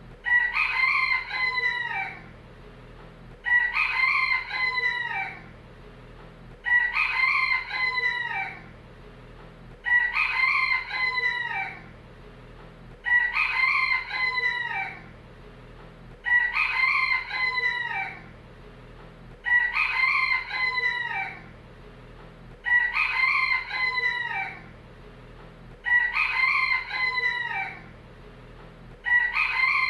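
A rooster crowing again and again, one cock-a-doodle-doo about every three seconds, each crow alike in shape and ending in a falling note.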